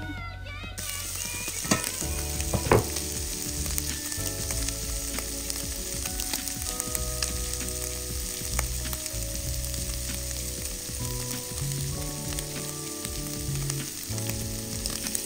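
Food sizzling as it fries in hot oil in a pan, with two sharp knocks about two and three seconds in.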